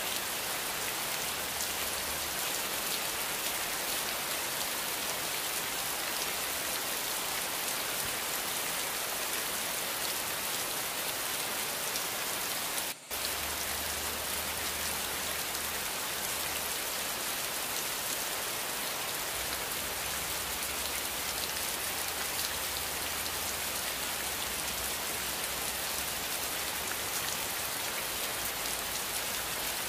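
Heavy rain falling steadily, an even hiss of drops with no breaks, apart from a split-second dropout about 13 seconds in.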